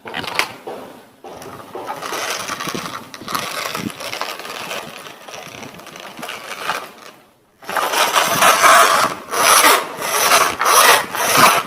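Plastic toy vehicles being handled and pushed about: wheels and parts scraping and rattling, growing louder about two-thirds of the way in with a run of repeated scrapes, about two a second.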